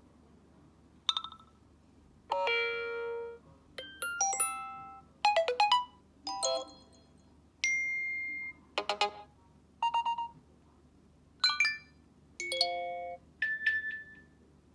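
iPhone 4 playing iOS 7 alert tones in sequence: about ten short electronic chimes and jingles, each lasting a second or less, with brief pauses between them.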